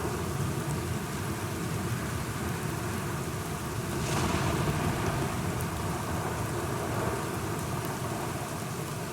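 Steady rain with a low rumble of thunder underneath; the sound swells briefly about four seconds in.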